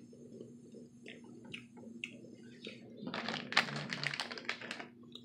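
Close-up mouth sounds of someone chewing a candy-coated M&M: soft wet clicks, then a dense crackling burst lasting about two seconds just past the middle, all over a faint steady hum.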